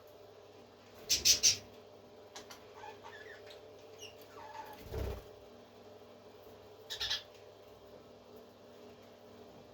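Parrot squawking: a quick run of three harsh squawks about a second in, and two more around seven seconds, with softer chirps between them. A low thump comes near the middle.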